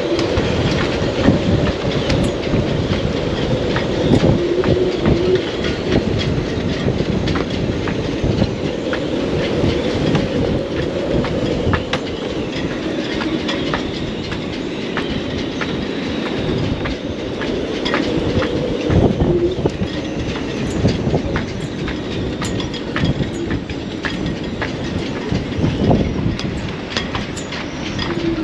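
Strong wind gusting over the microphone in a steady low rumble, with scattered sharp clicks and knocks throughout.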